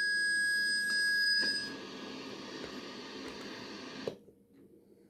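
Harsh noise from an electronic noise rig run through fuzz and distortion pedals: several piercing steady tones over a hiss. The tones stop a couple of seconds in, and the hiss cuts off suddenly about four seconds in.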